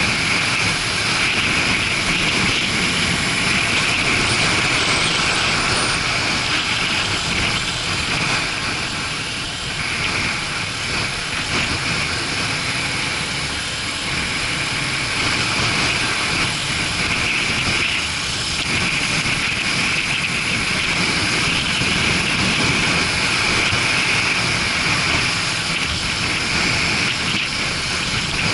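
Motorcycle on the move: a steady rush of wind and road noise over an action camera's microphone, mixed with the engine running.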